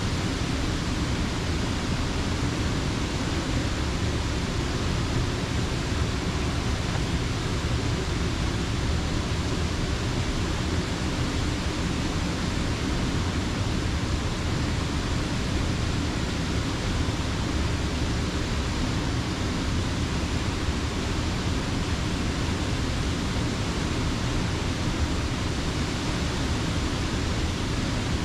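Creek water rushing steadily over the mill dam, an even unbroken roar that is heaviest in the low end.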